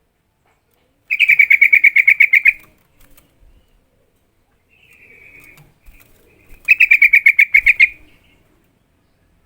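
Yellow-vented bulbul giving rapid chattering calls: two loud bursts of a dozen or so quick, even notes each, with a fainter short call between them.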